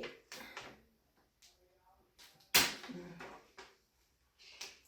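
Sticky contact paper rustling and crackling as it is handled and smoothed onto a tube, in several short strokes, the loudest about two and a half seconds in.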